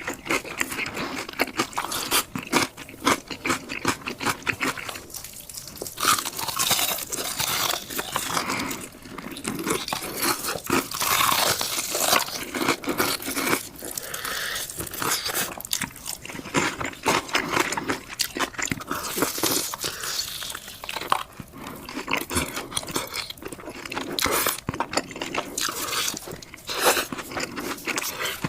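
Close-miked eating of crunchy food: loud, irregular crunching bites and chewing, one crackly crunch after another.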